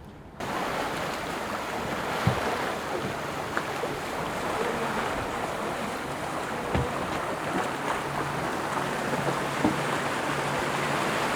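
Water rushing along the hull of an IMOCA racing yacht under way, with wind buffeting the microphone. A few soft knocks come through it.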